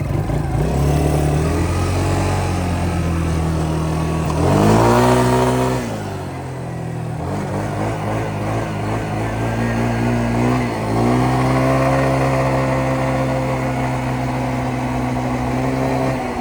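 Yamaha Grizzly 125 ATV's small single-cylinder four-stroke engine running under way. It revs up sharply about four and a half seconds in, falls back a second later, dips briefly near eleven seconds, then holds a steady speed.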